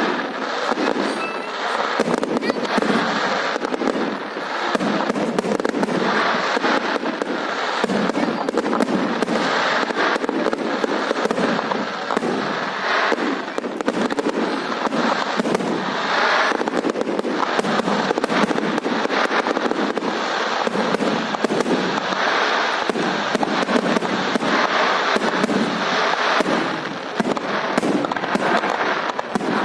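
Fireworks display firing a dense, continuous barrage of rapid bangs and crackling with no pause.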